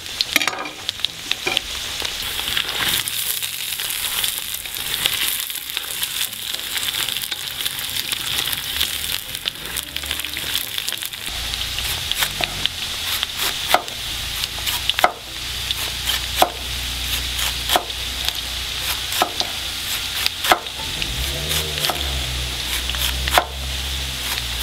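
Potato wedges sizzling steadily in hot sunflower oil in a kazan, with sharp knocks of a large knife on a wooden board about every second or so as fresh cabbage is shredded.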